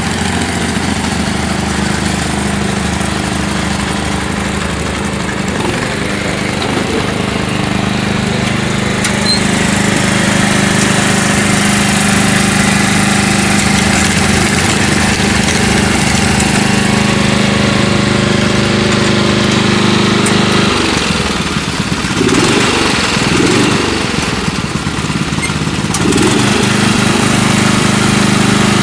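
An engine idling steadily, with a few seconds of wavering, rising and falling sound about three-quarters of the way through.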